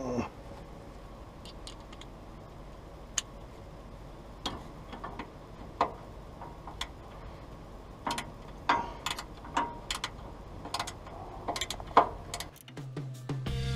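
Irregular light metallic clicks and taps of hand tools and small metal parts being worked on an RV's electric entry-step linkage, coming faster in the second half. Music starts about a second before the end.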